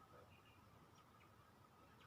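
Near silence, with a few faint, short bird chirps and a faint steady high tone underneath.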